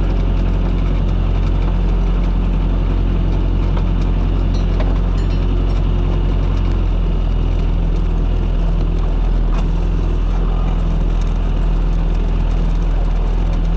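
Small fishing boat's engine running steadily, its low note shifting slightly about halfway through.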